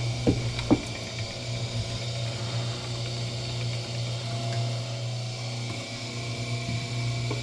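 Wire stripping machine running with a steady low hum, with two sharp knocks within the first second.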